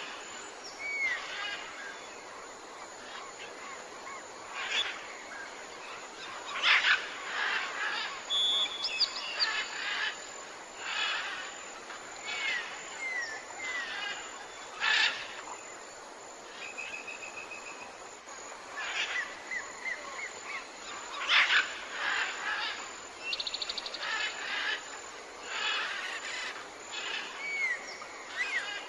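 Several birds calling and singing: many short chirps and whistled notes, with a few short rapid trills, over a steady background hiss.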